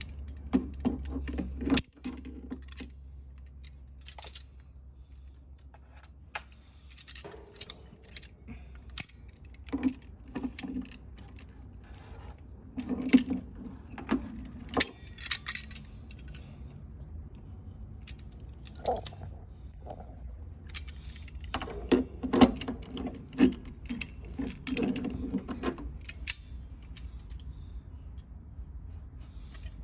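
Irregular metallic clinks and clicks of hand tools and small metal parts handled during work on a water heater's drain valve, some ringing briefly, over a steady low hum.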